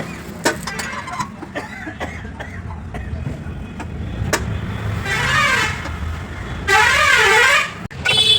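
Two warbling vehicle horn blasts, the second about a second long and the loudest, over a steady low rumble and scattered metallic clicks.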